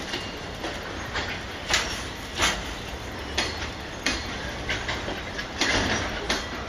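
Freight train wagons rolling past, their wheels clacking over rail joints in irregular single and paired clacks over a steady low rumble.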